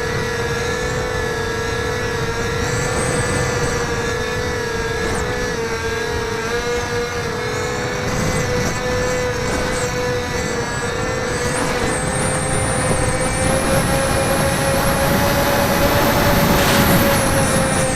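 Electric motor and propeller of a HobbyZone Firebird Delta Ray RC plane humming steadily in flight, with wind rumbling on the microphone. The pitch rises a little about two-thirds of the way through and drops again near the end.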